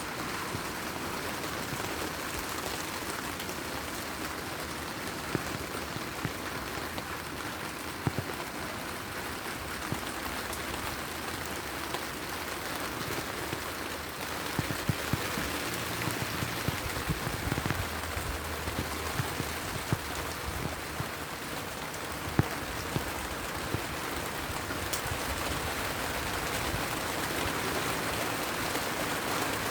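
Heavy rain falling steadily, with scattered sharp pops and clicks, most often past the middle.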